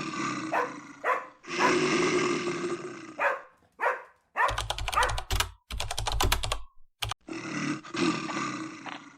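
Dog barks and growls over a steady noisy background, broken about halfway by a run of rapid sharp clicks lasting a couple of seconds.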